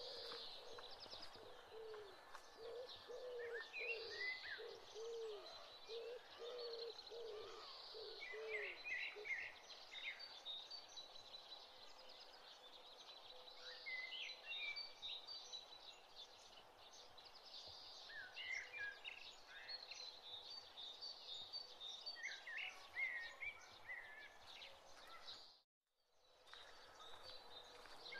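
Birds chirping faintly in the background, with a run of short, repeated low calls in the first several seconds. The sound cuts out briefly near the end.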